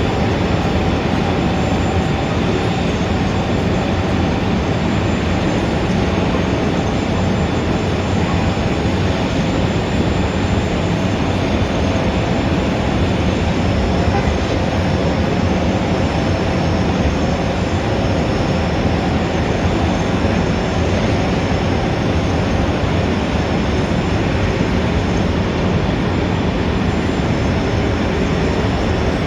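Steady city traffic noise: a dense, even rumble of many vehicles with no single event standing out.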